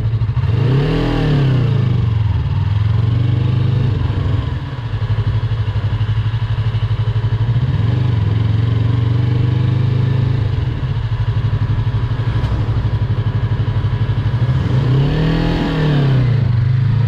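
Yamaha YZF R3's parallel-twin engine running steadily at low revs, its pitch rising and falling briefly twice, about a second in and again near the end.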